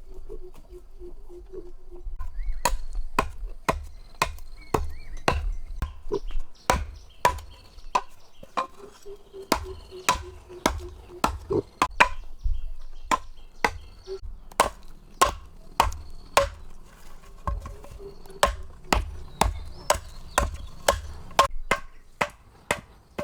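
Repeated chopping strokes, sharp blows at nearly two a second that keep going with only short pauses.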